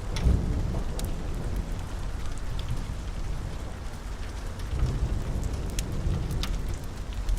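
Steady rain with a low rumble of thunder that swells just after the start and again about five seconds in. Occasional sharp pops from a crackling wood fire.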